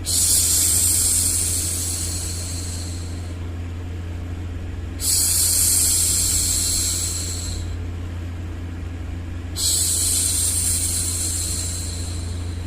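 A woman's voice going 'shhh', three long hushes about every five seconds, each fading away, over a steady low rumble of white noise.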